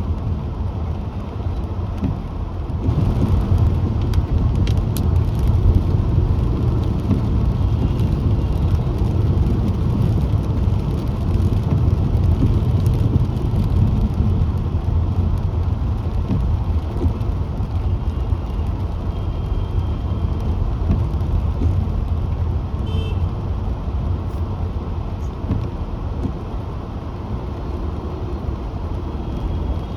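Car driving along a road: a steady low rumble of tyres and engine. A few faint, brief high tones come and go now and then.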